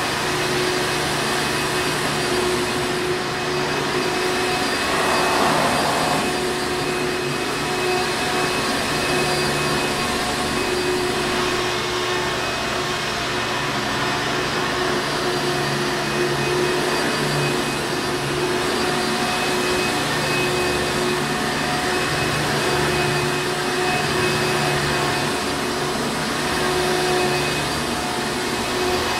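Hoover Encore Supreme vacuum cleaner running steadily: a constant motor hum with a steady whine over the rush of air.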